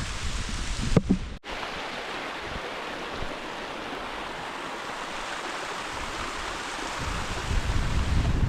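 Canyon creek water rushing steadily. A thump about a second in, and low wind rumble on the microphone near the end.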